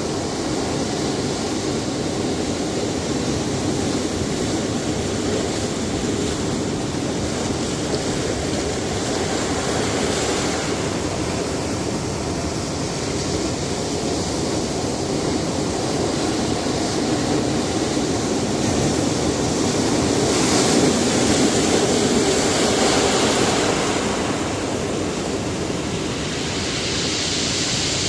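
Sea surf washing steadily against a rocky shore, with waves swelling louder about ten seconds in, most strongly around two-thirds of the way through, and again near the end.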